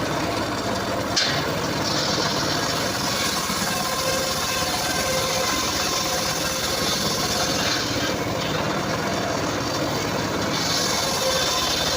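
Engine-driven homemade circular saw rig running steadily while sawing mahogany, with one sharp knock about a second in.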